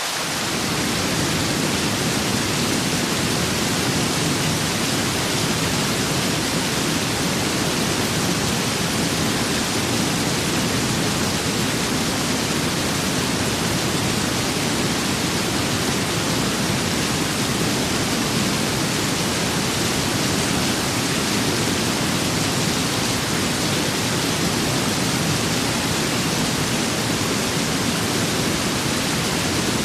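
Steady rain with wind: an even, unbroken hiss, with a deeper low rumble filling in right at the start.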